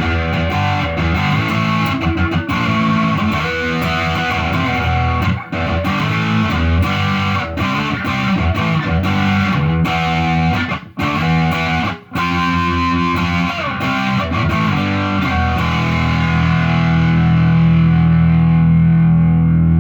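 Distorted electric guitar played on a Telecaster's bridge Seymour Duncan Hot Rails pickup, through a Fender Bassbreaker amp at full gain: a run of riffs and chords, ending about four seconds before the end on a chord left to ring out.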